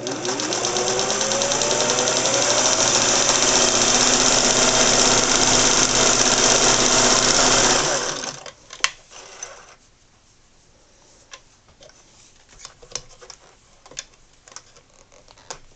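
Singer 401A sewing machine sewing a straight stitch through two layers of denim. The motor speeds up over the first couple of seconds, runs steadily, and stops about halfway through. A sharp click and a few faint ticks of handling follow.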